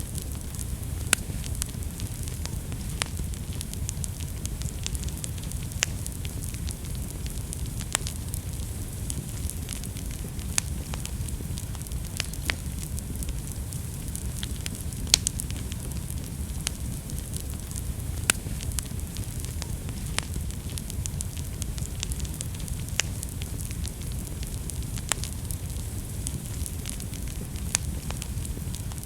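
Wood fire burning in a fireplace: a steady low rumble of the flames with sharp, irregular crackles and pops, one louder pop about halfway through.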